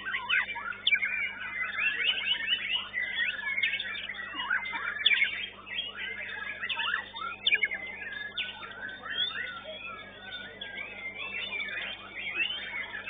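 Many caged white-rumped shamas (murai batu) singing at once in a songbird contest, a dense tangle of overlapping whistles, chirps and quick pitch sweeps.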